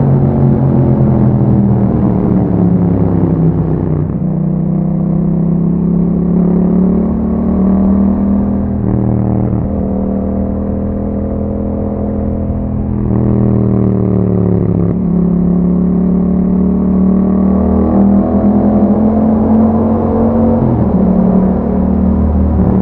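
2021 Yamaha MT-07's 689 cc parallel-twin engine through an Akrapovic exhaust with a dB killer, running under way: the pitch falls as the throttle eases off early on, climbs again, drops sharply about two-thirds through, then settles at a lower, fairly steady pitch.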